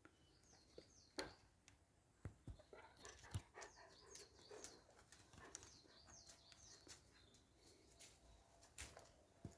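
Near silence with faint bird chirps throughout and a few soft taps or clicks.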